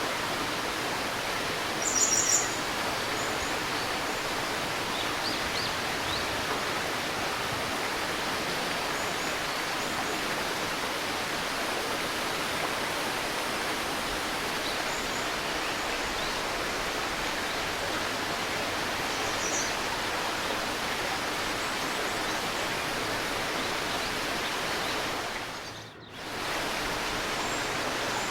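Shallow river babbling steadily, with a few short bird chirps over it, the loudest about two seconds in. Near the end the water sound fades down briefly and comes straight back up.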